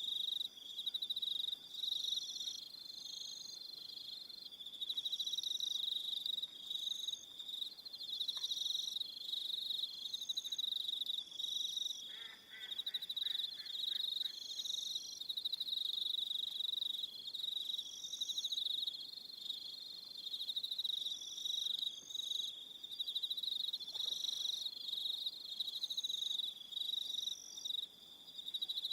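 Evening chorus of crickets: a steady, high, shrill trill with shorter chirps repeating above it in a loose rhythm. About halfway through there is a brief, lower, pulsing call.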